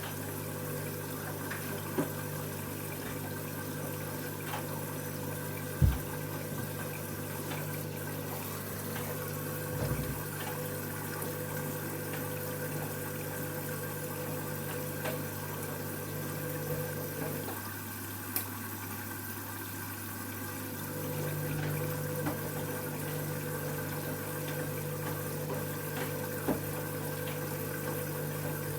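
Candy washing machine taking in water at the start of its wash cycle: water running into the machine over a steady electrical hum, with a few light knocks. Part of the hum drops out for a few seconds past the middle, then returns.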